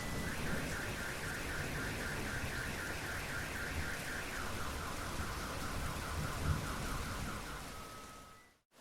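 Steady rain with a car alarm sounding through it: a rapid pulsing chirp about five times a second, stepping to a lower pitch about four seconds in, then a short steady tone. The audio cuts to silence just before the end.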